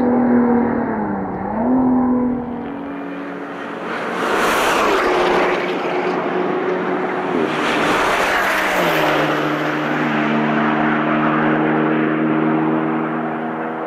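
Car engine running, its pitch dipping and recovering about a second in, then stepping down to a lower steady note near nine seconds in, with a rush of broad noise over the middle part.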